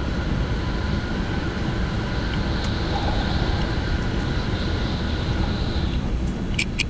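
Steady low running noise of a bullet train travelling at speed, heard inside the passenger cabin, with a few sharp clicks near the end.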